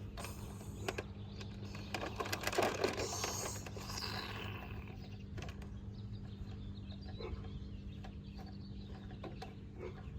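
A plastic toy crane being handled and set up in dirt: scattered clicks and scrapes, busiest in the first few seconds, over a steady low hum.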